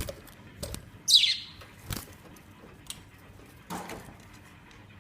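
Female budgerigar giving one loud, harsh squawk that falls steeply in pitch, about a second in, while being held in the hand. A few sharp knocks and scuffles of handling come before and after it.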